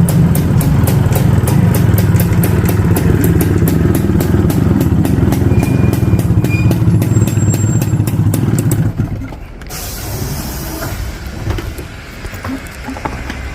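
Suzuki TS185's single-cylinder two-stroke engine idling steadily through its exhaust. About nine seconds in, the sound drops to a quieter, different engine sound.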